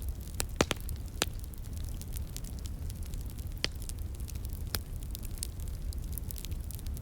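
Fire crackling and popping: scattered sharp pops, a cluster of the loudest in the first second and two more later, over a steady low rumble.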